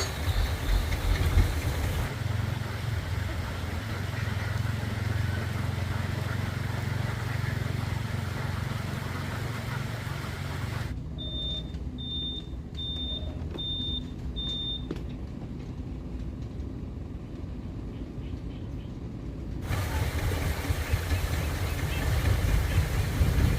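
Truck engine running steadily with a low hum. Partway through come five short, high beeps about three-quarters of a second apart.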